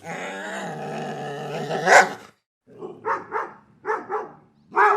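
A dog: one long drawn-out call lasting about two seconds that rises in pitch near the end, then after a short pause a quick run of five or six short barks.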